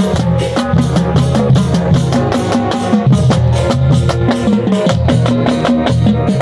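Marching band playing: brass holding low notes over a fast, steady drum beat.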